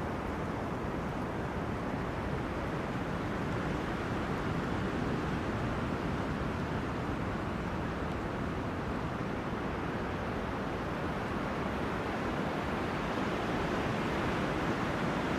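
Wind blowing through forest trees: a steady, even rush that grows slightly louder near the end.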